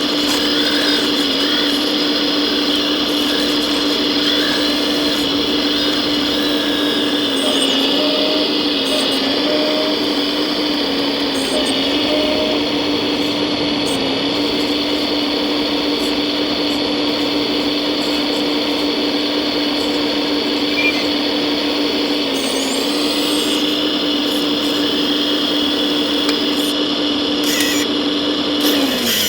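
Small electric motor of a 1:14 scale RC construction model whining steadily, its pitch dipping briefly a few times and sagging away near the end.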